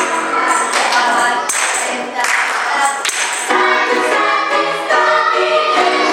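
Gospel choir singing an upbeat song, with a steady beat of percussion hits under the voices.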